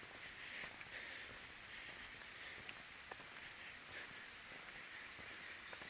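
Insects trilling outdoors: one faint, steady, high-pitched tone, with a few soft ticks.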